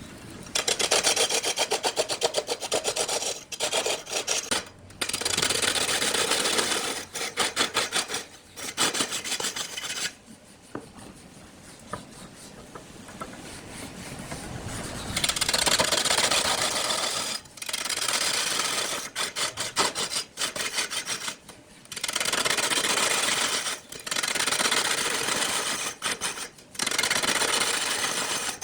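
Woodturning tool cutting a wood block spinning on a lathe, a scraping, rasping sound in passes of one to a few seconds with short pauses between them. Some passes carry a fast rhythmic ticking, and there is a quieter stretch around the middle.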